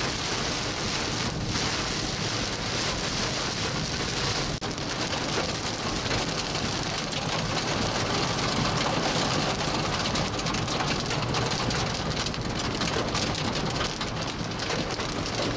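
Heavy rain beating steadily on a vehicle, a dense patter of drops that does not let up.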